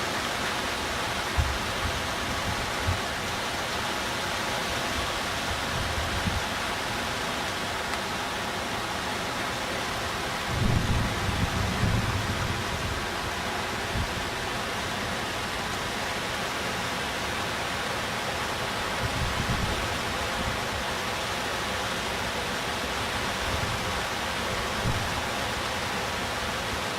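Steady rushing of water in a typhoon flood, with gusts of wind buffeting the microphone about ten seconds in and again near twenty seconds.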